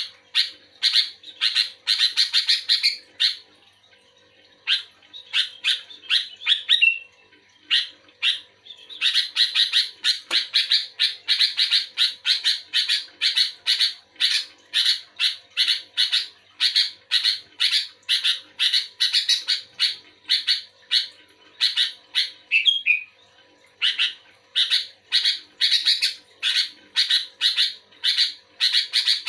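Sooty-headed bulbul (kutilang) singing actively: long runs of rapid, short chattering notes, broken by a few brief pauses.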